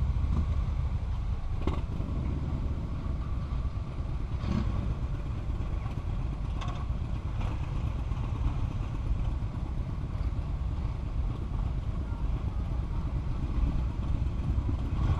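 Motorcycle under way, heard from a helmet-mounted camera: a steady engine drone under heavy, deep wind rumble on the microphone.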